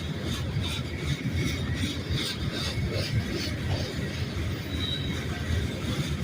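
Cars of a loaded rock freight train rolling past with a steady low rumble and regular wheel clicks, about two to three a second. A faint high wheel squeal comes at the start and again near the end.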